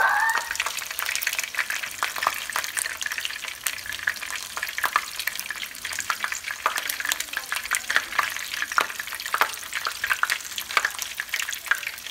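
Egg-battered cauliflower florets frying in very hot oil in a pan: a continuous sizzle full of small, quick crackling pops, while a fork turns the pieces over.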